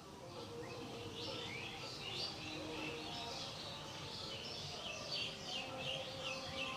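Birds chirping: a busy run of short, quick chirps that follow close on one another throughout, over a low steady background noise.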